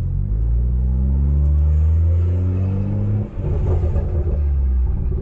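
Straight-piped, big-turbo BMW 340i's turbocharged 3.0-litre inline-six accelerating, its note climbing steadily in pitch for about three seconds, then dipping briefly and carrying on rougher and choppier.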